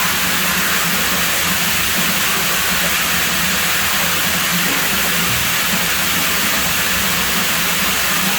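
Steady, loud rush of running water at a pool villa's pool, an even hiss with no breaks.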